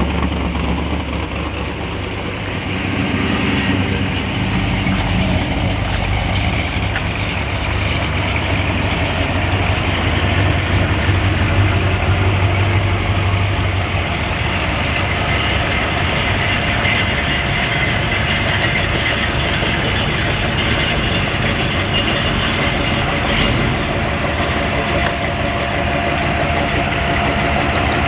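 Car engines idling as cars move slowly in line, with one deep low engine note standing out for about the first half, then dropping away.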